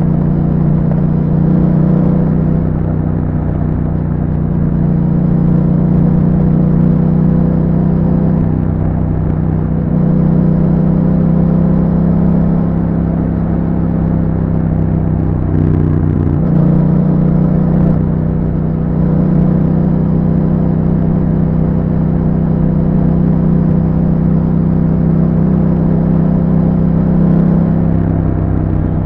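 Yamaha MT-07's parallel-twin engine running through an Akrapovic exhaust with a dB killer, the bike riding at steady revs. Its pitch dips and rises again briefly about sixteen seconds in, and shifts a little around ten seconds and near the end.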